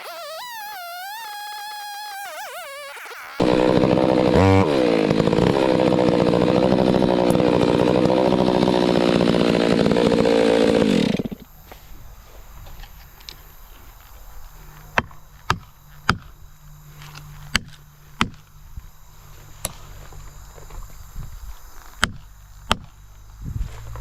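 Chainsaw running at full throttle for about eight seconds, then cutting off suddenly. Afterwards a series of sharp snaps and cracks, about eight over the last ten seconds.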